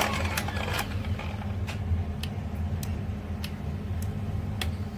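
Electric drywall sander running steadily with a low motor hum and scattered sharp ticks.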